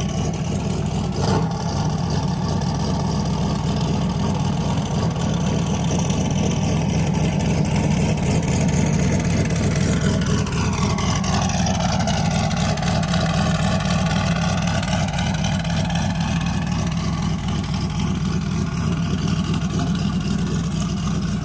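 Turbocharged small-block Ford V8 pickup engine running steadily, with a higher whine that falls and then rises again about halfway through.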